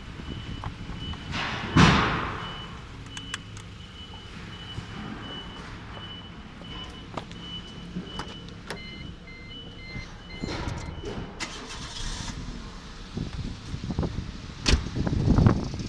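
Nissan GA15-DE 1.5-litre four-cylinder engine running during a pre-sale test, with a high electronic beep repeating about twice a second. Loud bursts of noise come about two seconds in and again near the end.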